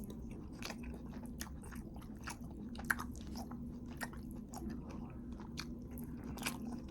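A person chewing a mouthful of food, with irregular wet clicks and smacks, over a faint steady hum.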